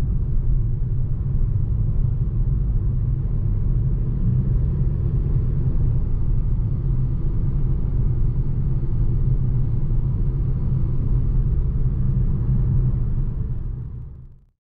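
Steady low engine rumble that fades out near the end.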